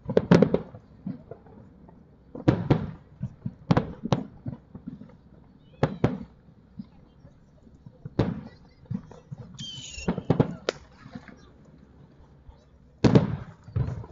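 Aerial firework shells bursting in a series of sharp bangs every second or two, several coming in quick pairs.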